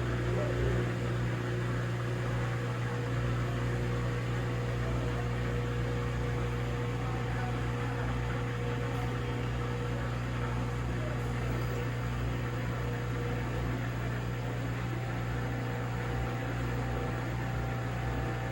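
A steady electric machine hum with a faint whine over it, starting and stopping abruptly.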